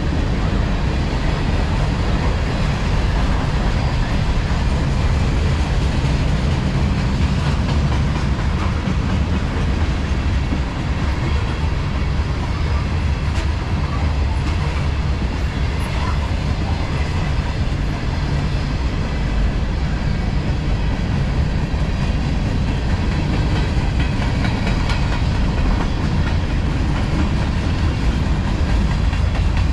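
Freight cars of a CSX manifest train rolling past on steel wheels, a steady, loud rumble.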